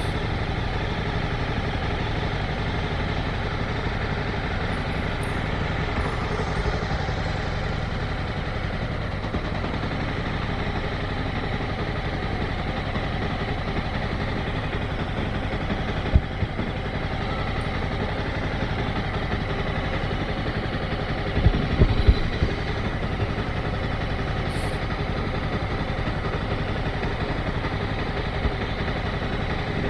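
Motorcycle engine running steadily at low revs, with a few short knocks about halfway through and twice more a few seconds later.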